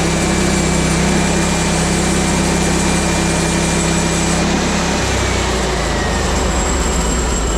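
Woodland Mills bandsaw mill running, its gas engine and band blade cutting through a log. About five seconds in the engine note drops lower and a high blade whine slowly falls in pitch, as the mill slows under load.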